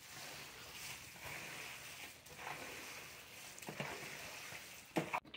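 A man quietly chewing a mouthful of boudin, with a few soft mouth clicks in the second half over a faint steady hiss of room noise.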